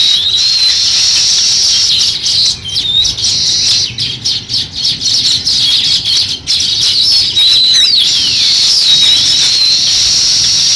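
A flock of small songbirds chirping and chattering together without a break, many overlapping calls, with a few sliding whistled notes, one falling steeply about three-quarters of the way through.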